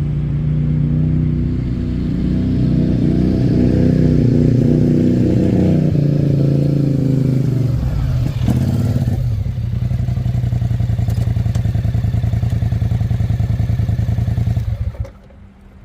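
Freshly rebuilt engine of a Polaris Sportsman 850 ATV running, revved up and held higher for several seconds, then dropping to a steady idle. The engine is shut off suddenly near the end. The rebuild has left it running well.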